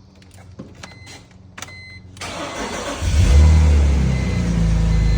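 Cold start of a 2004 BMW E46 330i ZHP's 3.0-litre straight-six: two short electronic beeps, then the starter cranks for under a second and the engine catches, flares up loudly and settles into a steady fast cold idle.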